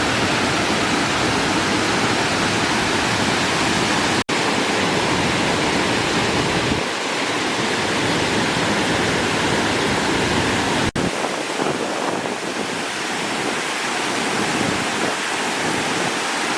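Steady, loud rush of water from the Aruu Falls waterfall. The sound breaks off for an instant twice, about four and eleven seconds in, and its deep rumble thins after about seven seconds.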